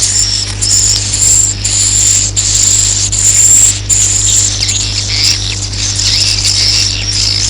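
Edible-nest swiftlets' roosting call ('suara inap'): a dense, continuous high-pitched twittering of many overlapping chirps, with a steady low hum underneath. This is the kind of call track played in swiftlet houses to lure the birds to roost.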